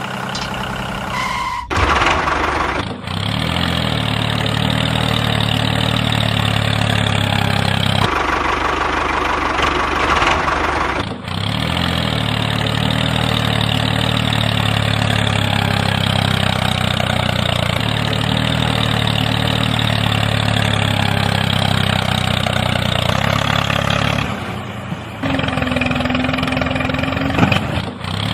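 A motor or small engine running steadily, with abrupt breaks and changes in tone several times as the footage cuts between machines.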